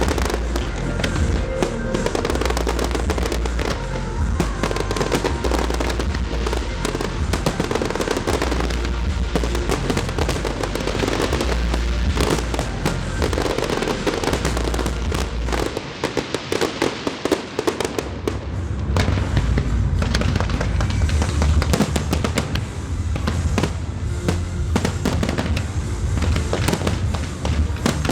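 Fireworks going off in a dense, continuous run of bursts and crackles over music. The deep low rumble drops away for a couple of seconds past the middle, then returns.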